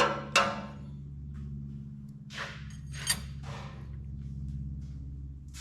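Metal push rods clinking and knocking as they are fed down through an Oliver 77 engine's head into their lifters: two sharp clicks at the start, a softer scrape, and another sharp click about three seconds in. A steady low hum runs underneath.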